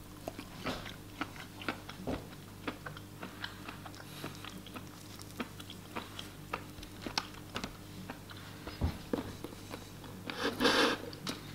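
A person chewing a chocolate-coated wood ear (jelly ear) mushroom, which is very chewy, with many soft clicks scattered through. A brief louder noise comes near the end.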